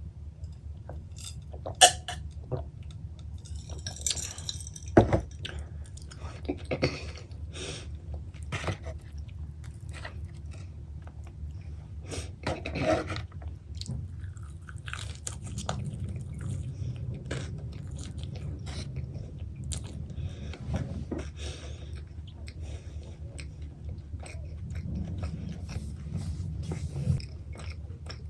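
Close-up chewing and biting of pepperoni pizza, with wet mouth smacks and crunchy bites over a low steady hum.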